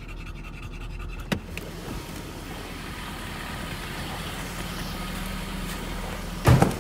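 Car engine idling steadily with a dog panting. There is a sharp click about a second in and a loud thump near the end.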